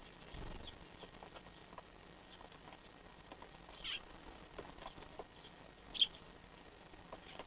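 Tree sparrows, young birds among them, chirping: many faint short high chirps, with louder ones about four seconds in and about six seconds in. A brief low rumble sounds near the start.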